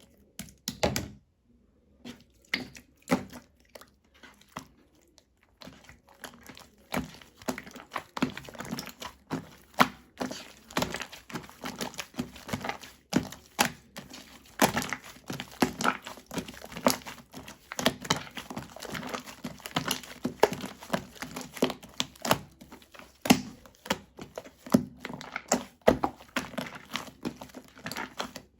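Purple shaving foam being crushed and squeezed, giving a run of crisp crackles, crunches and soft thunks. The sounds come one at a time for the first five seconds or so, then pile up into dense, continuous crackling.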